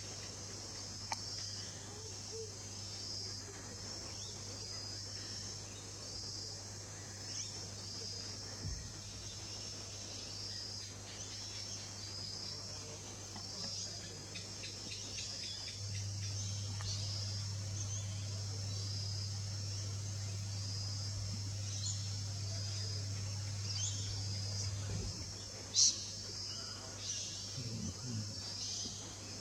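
Steady chorus of insects, with a fast high-pitched pulsing that runs on without a break, over a low steady hum that becomes louder about halfway through; one sharp click stands out near the end.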